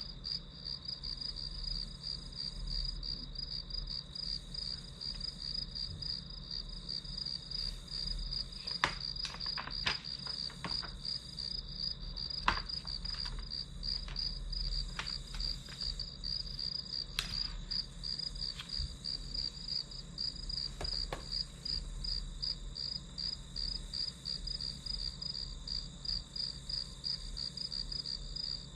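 Crickets chirping in a steady, rapid pulsed trill, with a few light clicks and taps in the middle.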